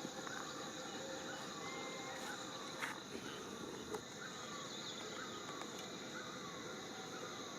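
Steady high-pitched insect trilling with a run of short falling chirps, about one a second, and a single sharp click about three seconds in.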